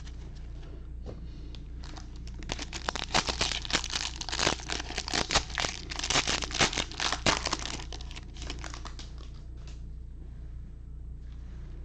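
Foil wrapper of a baseball card pack crinkling and tearing as it is ripped open by hand, a dense run of crackles that starts about two seconds in and dies down a few seconds later.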